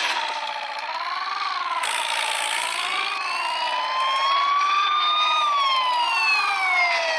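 Siren wailing: a tone warbling up and down about once every second and a half, joined about three seconds in by a second wail that rises slowly and then falls.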